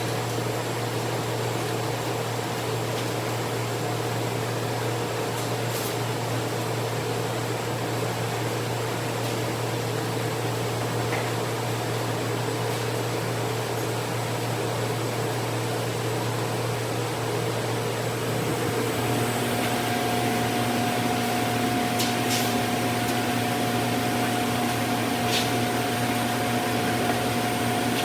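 A steady motor hum, with a shift to a new, slightly louder pitch about two-thirds of the way through, and a few faint clicks.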